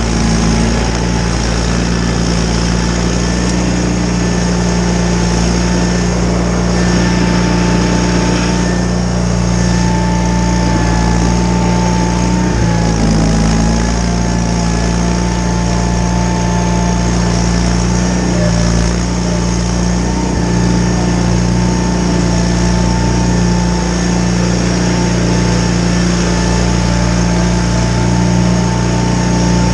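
John Deere 318 garden tractor's engine running steadily while it drives a Model 49 snowblower, with a steady high whine over it. A brief low knock comes a little under halfway through.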